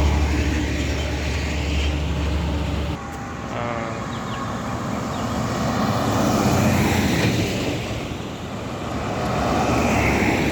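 Heavy road vehicles running at high speed: a strong low engine drone that drops away suddenly about three seconds in, then a rushing engine and tyre noise that swells and fades twice as vehicles go past.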